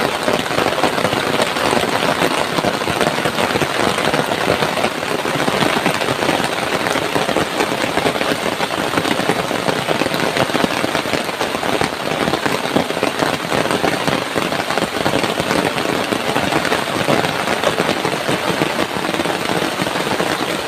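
Heavy downpour: a dense, steady rush of rain striking the ground and foliage, made of countless fast drop impacts that never let up.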